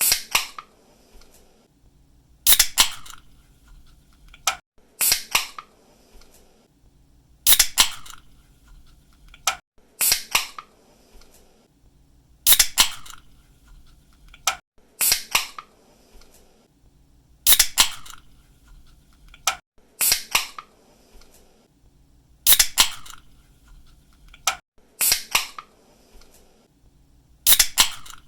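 Aluminium drink can pull-tab snapping open with a short hiss, over and over at an even pace of about one opening every two and a half seconds.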